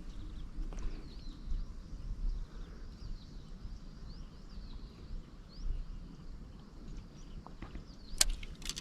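Outdoor ambience of a bird chirping over and over in short calls, over a low rumble, with two sharp clicks near the end.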